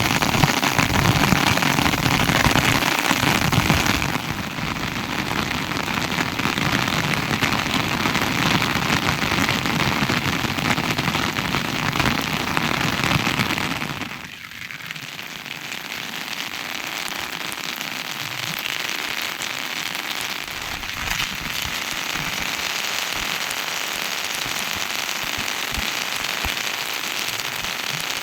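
Steady rain falling. It is louder and fuller in the first half, then quieter and thinner about halfway through.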